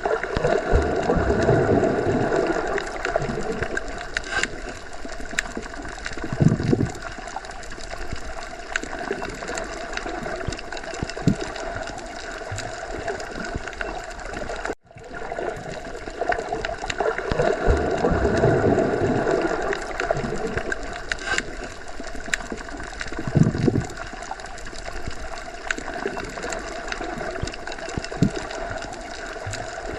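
Underwater sea ambience: muffled water gurgling and bubbling, with slow low surges and an occasional dull thump. There is a brief dropout about halfway through, after which the same stretch of sound repeats.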